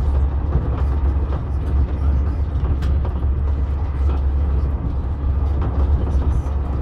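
Passenger train running along the line, heard from inside the carriage: a steady deep rumble with a hiss of wheels on rail and a few faint light clicks.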